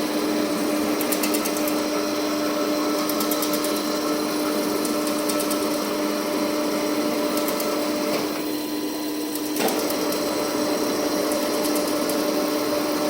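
Bode VP2 welding positioner's electric drive running steadily with a constant hum. Past the middle the sound drops away for about a second, then comes back in with a click.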